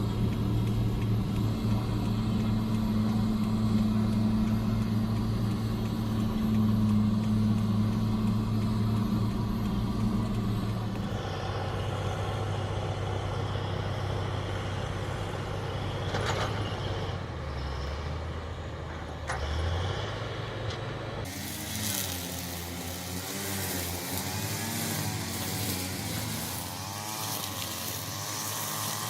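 Engines of heavy road-maintenance vehicles and machinery running, a steady low drone at first that shifts several times, with an abrupt change to a different engine sound about two-thirds of the way through.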